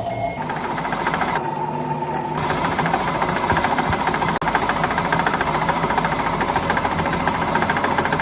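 Workshop machinery running steadily, with a fast, dense rattling crackle over a steady hum. The sound changes abruptly twice in the first few seconds, as at cuts.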